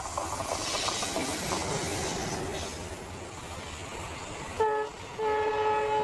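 Indian Railways passenger train hauled by a WDM diesel locomotive running past, the coaches rolling by with steady wheel-on-rail noise. About four and a half seconds in, the locomotive's horn gives a short toot, then a longer steady blast that is the loudest sound.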